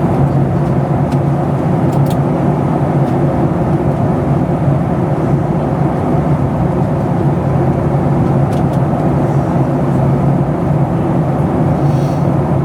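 Cabin noise of a Boeing 737-700 in flight: the steady rush of the engines and the airflow over the fuselage, with a low drone underneath and no change.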